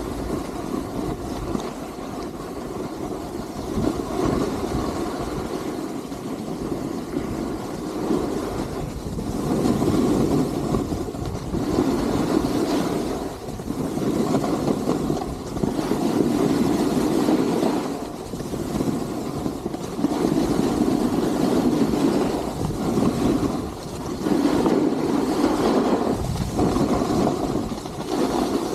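Ski or snowboard edges carving on snow during a downhill run, a rushing scrape that swells and eases about once every two seconds, turn after turn.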